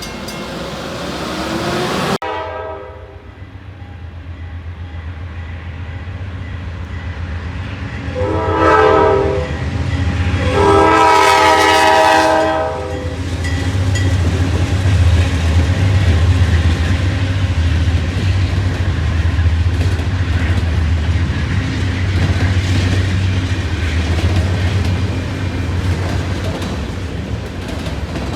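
Freight train's diesel locomotive horn sounding a short blast and then a long one, followed by the steady low rumble of the locomotive engine and the clatter of the train rolling past. The first couple of seconds hold the sound of another passing train, which cuts off abruptly.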